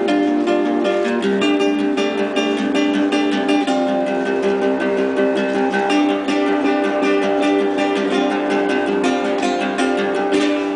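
Acoustic guitar played fast, a dense run of plucked notes mixed with strums.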